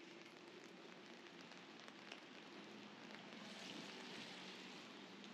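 Rain falling on wet pavement: a faint, steady hiss with scattered drips, swelling briefly a little past the middle.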